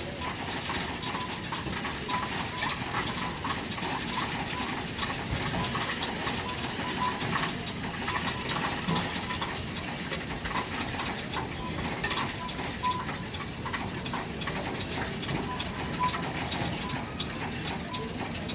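Coinstar coin-counting kiosk running through a large load of loose change, a steady dense rattle and clatter of coins tumbling through the machine, with short beeps now and then.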